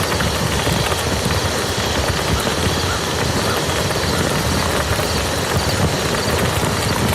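Steady heavy rain falling on a muddy field: a dense, even patter of countless drops with no let-up.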